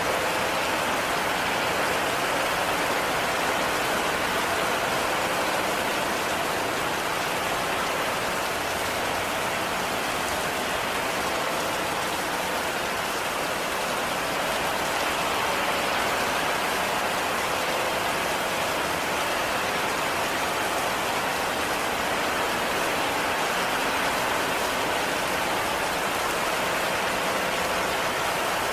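Heavy rain falling steadily, an even, unbroken hiss of rain on a surface with no let-up.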